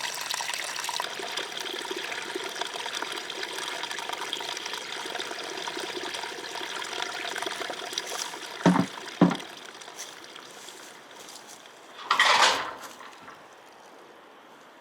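Steady rushing of running water that fades after about eight seconds, with two sharp knocks in quick succession and, near the end, a louder brief noisy burst.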